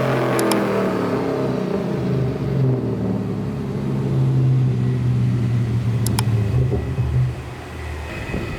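Cadillac CTS-V V8 on a chassis dyno coming down off a full-throttle pull. The revs fall away, then it runs steady at low speed for several seconds before easing off near the end. Two short sharp clicks sound over it.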